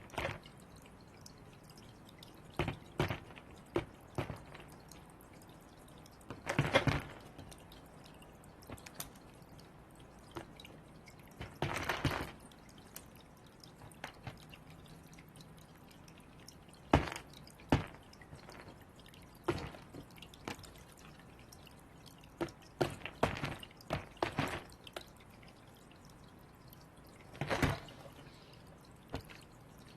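Birds pecking and tapping at balls on a hard surface: irregular sharp taps and knocks, with a few longer scuffling bursts.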